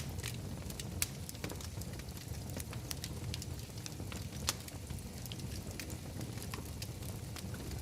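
Wood fire burning in a fireplace: a steady low rumble with scattered sharp crackles and pops, the clearest about one second in and near the middle.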